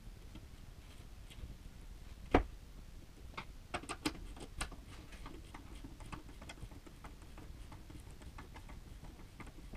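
One sharp knock about two seconds in, then a quick run of light clicks and taps and a few scattered ticks.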